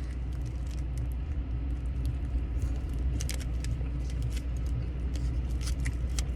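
Steady low rumble of an idling car engine, with a few short crackles and clicks from the burrito and its wrapper being handled while he takes a bite.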